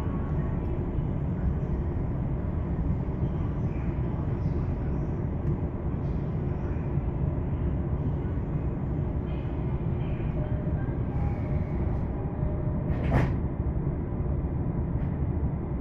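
Running noise of a Tokaido Line electric commuter train heard from inside the car: a steady low rumble of wheels on rail. About 13 seconds in, a brief sharp burst of noise stands out above the rumble.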